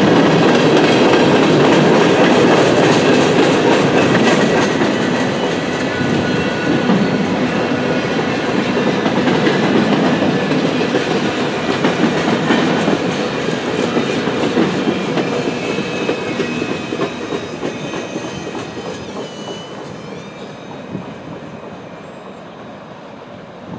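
Freight cars of a long mixed freight train rolling past, their steel wheels running on the rails. The noise fades steadily as the end of the train passes and draws away.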